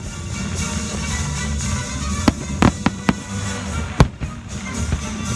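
Aerial firework shells bursting, with several sharp bangs between two and three seconds in and the loudest bang about four seconds in, over steady background music.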